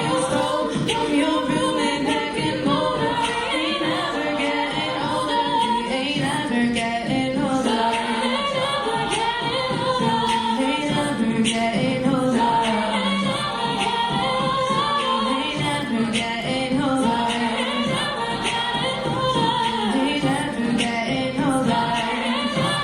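A cappella vocal group singing a pop song in layered harmony, with a lead voice over backing voices and a steady beat of vocal percussion.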